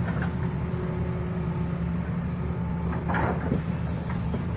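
Heavy diesel engine running steadily, with a short burst of noise about three seconds in.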